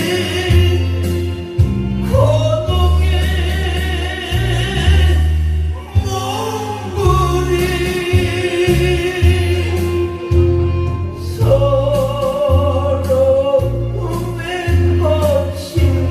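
A singer singing a slow song over instrumental accompaniment, with sustained bass notes changing about once a second under the vocal melody.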